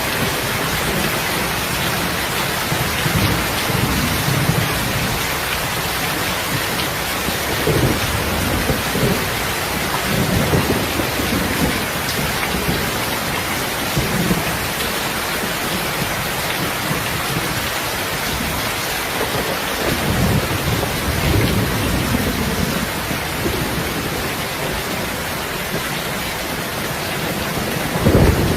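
Steady heavy rain hissing, with short low rumbles swelling up every few seconds.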